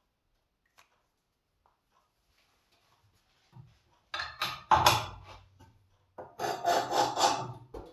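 Two rasping grinding strokes of a scissor blade across the abrasive wheel of a Twice as Sharp scissor sharpener, the first about four seconds in and the second near the end, each lasting a second or two. This is a test pass over the marker-inked bevel to check that the grinding angle matches.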